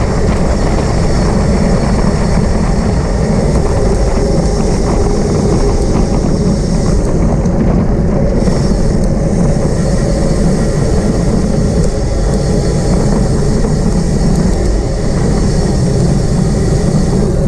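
Steady rushing wind on the microphone of a camera riding on a moving road bicycle, mixed with tyre and road noise.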